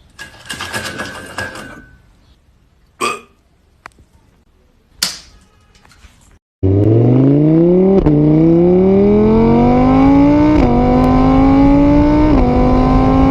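A vehicle engine accelerating up through the gears: its pitch climbs, drops at each of three shifts, then climbs again. It starts suddenly about halfway in and is the loudest sound. Before it come a few short, unrelated noises.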